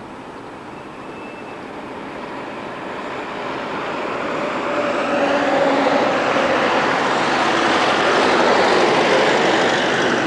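Tram running on street rails and coming closer: a rumble of wheels on track that builds over several seconds to its loudest near the end, with a faint steady whine.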